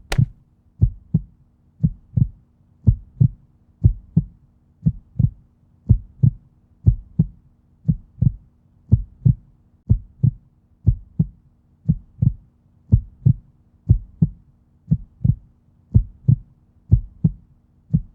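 Heartbeat-like pairs of low thumps repeating evenly at about one pair a second, over a steady low hum.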